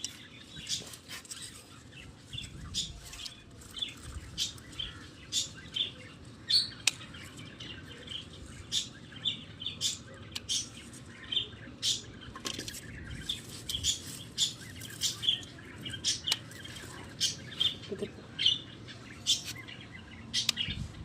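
Small birds chirping: repeated short, high chirps, roughly two a second.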